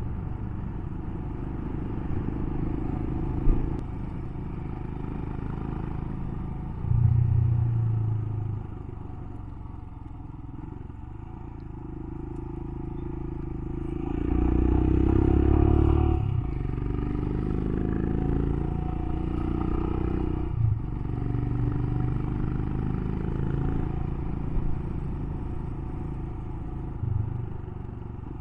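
Royal Enfield Himalayan's single-cylinder engine running as the motorcycle rides along, with road noise. The revs climb about halfway through, then dip briefly twice.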